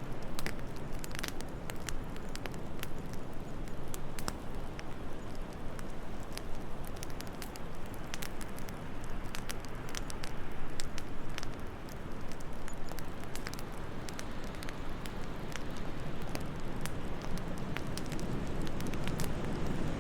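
Wood fire crackling in a fireplace, with many sharp irregular pops and snaps over a steady low rush of wind.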